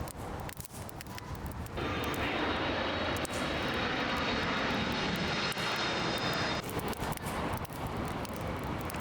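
Jet airliner engines, a loud steady rush with a thin high whine. It comes in suddenly about two seconds in and cuts off about three seconds before the end.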